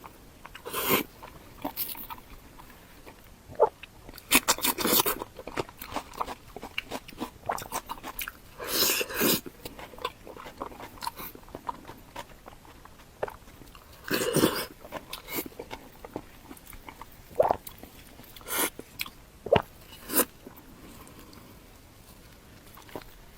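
A person biting and chewing food close to the microphone, with wet mouth clicks and a louder bite or chewing burst every few seconds.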